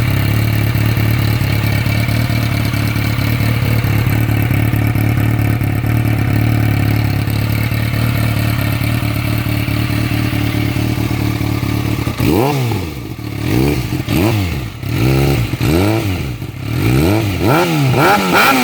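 Kawasaki ZX-6R 636's inline-four engine idling steadily through a Radiant Cycles shorty GP exhaust, then, about two-thirds of the way in, revved in a quick series of short throttle blips, each rising and falling in pitch.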